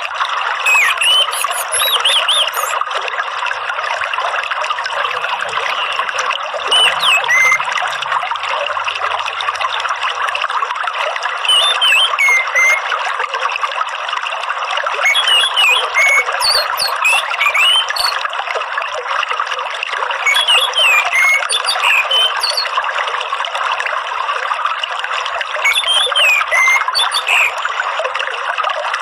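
Steady trickling, running water with an orange-headed thrush singing over it. The bird gives short whistled phrases with squeaky high notes, repeated every four to six seconds.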